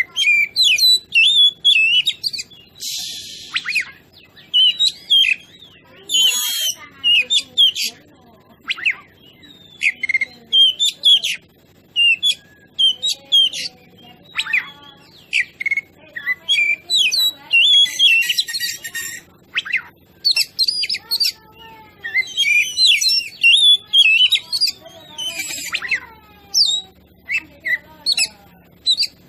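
Oriental magpie-robin (kacer) in full song: a continuous run of varied whistled phrases, trills and chirps, broken by several harsh, rasping notes.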